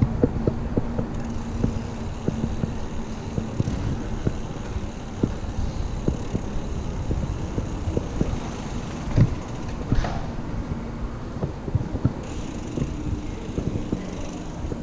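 Full-suspension mountain bike being ridden: a steady rumble of tyres and wind with many small rattling clicks and knocks from the bike, two louder knocks about nine and ten seconds in.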